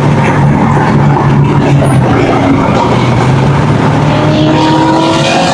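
Car engine and road noise at speed, a steady drone, with a rising engine note from about four seconds in as a car accelerates.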